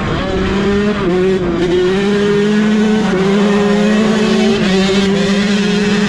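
Dirt bike engine running hard at high revs while riding, a steady note whose pitch dips briefly a few times as the throttle is eased or a gear changes.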